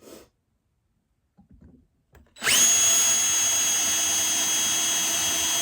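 An electric power tool starts about two and a half seconds in, spins up, and then runs steadily with a high whine.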